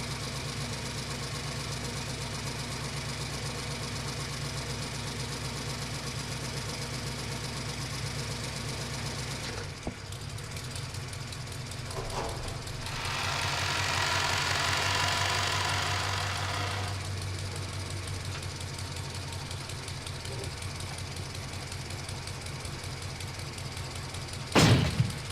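Toy vehicle making a steady engine-like hum that shifts about ten seconds in. A louder hiss joins it for a few seconds in the middle, and a sharp knock comes near the end.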